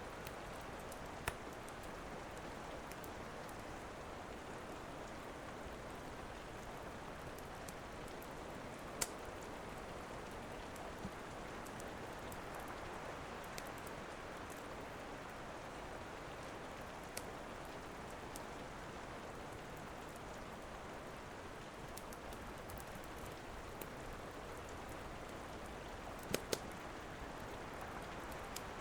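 Steady rain falling, with a few sharp pops from a crackling wood fire, two of them close together near the end.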